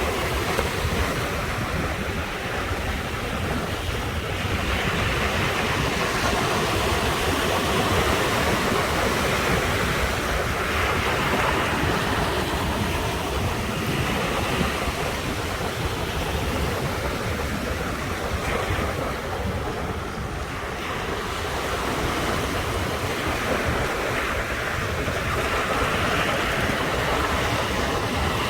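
Ocean waves breaking and washing on the shore, swelling and easing every few seconds, with wind on the microphone.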